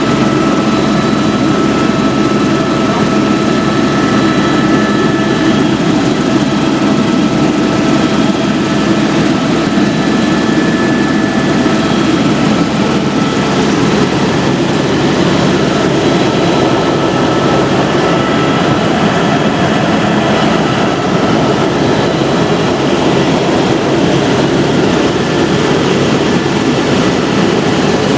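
Helicopter in flight: a loud, steady rush of rotor and engine noise, with thin high whining tones from the turbine running over it.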